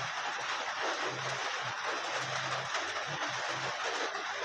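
Steady hiss of heavy rain, with a few short low notes underneath.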